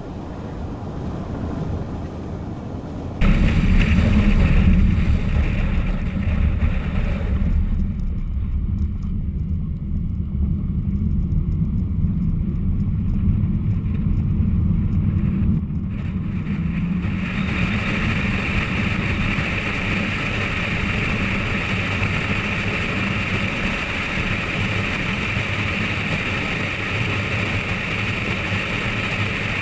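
Car driving at speed, heard from inside the cabin: steady engine and road rumble with wind noise. It jumps abruptly louder about three seconds in, and a steady higher hiss joins the rumble a little past halfway.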